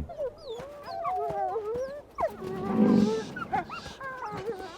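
Several wolves howling together, their wavering calls overlapping, with a low growl about halfway through.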